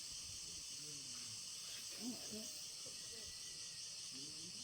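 Steady high-pitched drone of rainforest insects, with faint distant human voices murmuring underneath.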